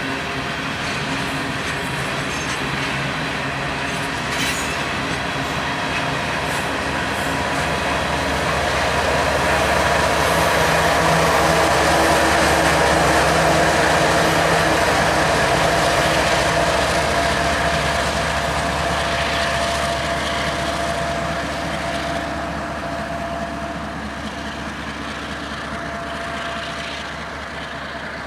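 Freight train rolling past: a steady rumble of wheels on rail with some clickety-clack, building to its loudest about halfway through and then fading away.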